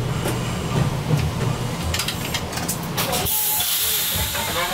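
Chikuho Electric Railway 3000 series car rolling to a stop with a low rumble and a few clicks. About three seconds in the rumble dies away and a loud hiss of compressed air from the brakes takes over as the car halts.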